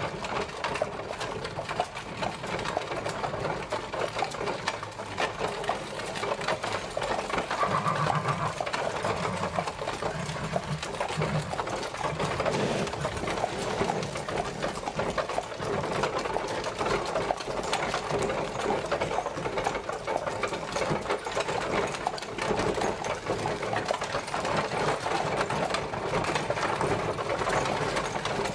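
A horse-drawn carriage travelling, its wooden wheels and body rattling and clattering in a steady, fast, unbroken stream.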